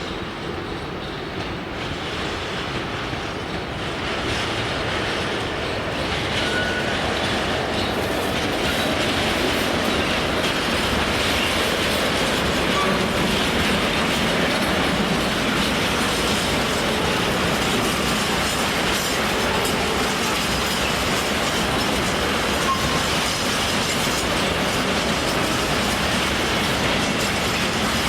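A train running past, growing louder over the first several seconds and then staying loud, with wheels clattering over the rail joints.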